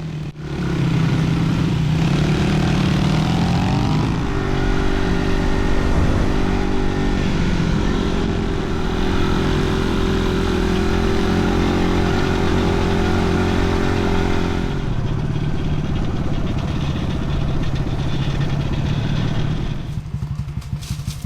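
Crossfire dirt bike engine running under load. It revs up about two seconds in, then pulls steadily and eases off about fifteen seconds in, dropping quieter near the end.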